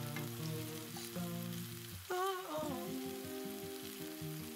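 Diced onions sizzling as they fry in oil in a pan, stirred with a wooden spatula. A background pop song plays throughout, with a sung phrase about two seconds in.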